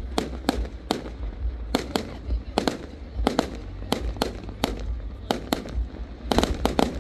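Fireworks going off in quick succession: many sharp bangs and crackles, several a second and unevenly spaced, over a low rumble.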